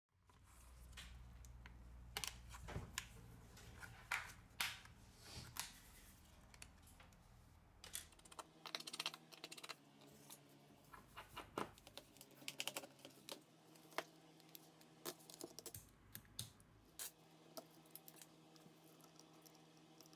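Irregular light clicks and taps of small hand tools handling a phone on a repair bench, over a faint low hum.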